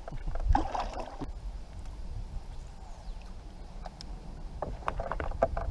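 Water sloshing and gurgling around a kayak, over a steady low rumble, with a few light clicks and knocks near the end.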